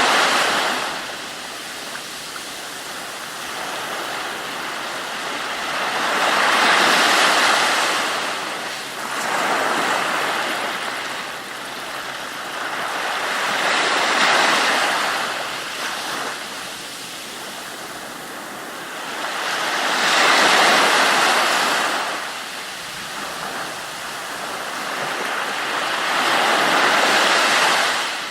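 Ocean waves breaking and washing ashore, a rushing hiss that swells and ebbs about every seven seconds.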